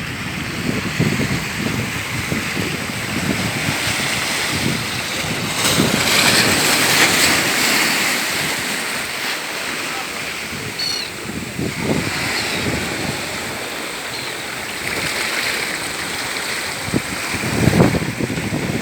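Rushing water noise like surf, with wind buffeting the microphone. It swells a few seconds in and again near the end.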